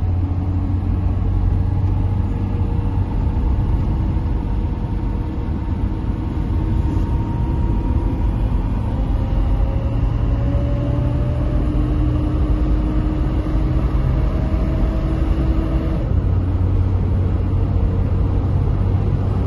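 1970 Mercedes-Benz 280 SL's 2.8-litre fuel-injected straight-six engine and road noise heard from inside the car while driving: a steady low rumble whose engine pitch rises slowly, then drops abruptly about sixteen seconds in.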